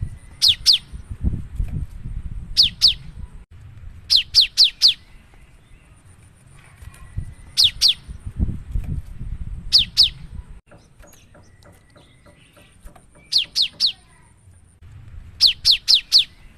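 Cinereous tit (gelatik batu) singing hard, in quick bursts of two to four sharp, steeply falling whistled notes. A burst comes every couple of seconds, over a low rumble.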